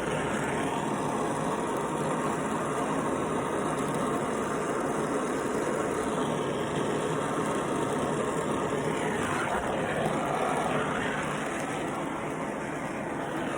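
Gas torch flame hissing steadily while it heats a refrigerant line joint to solder it onto a refrigerator compressor.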